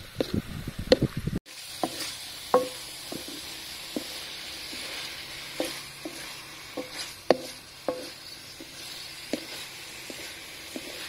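Wooden spatula stirring squid around a steel wok with quick scraping clicks; after a sudden cut about a second and a half in, steady sizzling of squid and garlic frying in oil, with scattered sharp pops.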